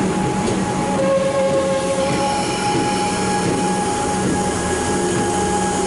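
Comeng electric suburban train at a station platform, a steady drone of its running gear with several steady whining tones, one higher tone coming in briefly about a second in.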